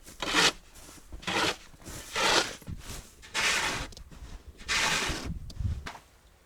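Five crunching, scraping strokes in snow and ice, about one every second and a quarter, with a dull thud near the end.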